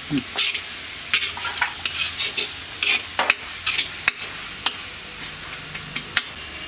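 Onion, tomato and ginger-garlic paste masala frying in a pan with a steady sizzle, stirred with a run of short, irregular scraping strokes.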